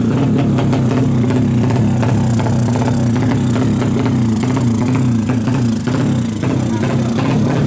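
Tuned 180 cc single-cylinder four-stroke engine of a Kawasaki KLX drag bike running loudly at a steady idle, its pitch wavering a little.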